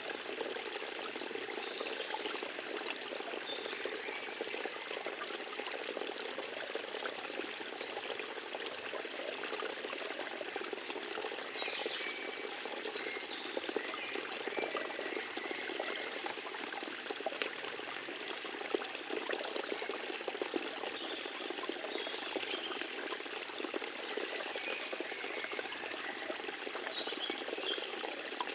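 Forest stream running and trickling steadily, an unbroken rush of water.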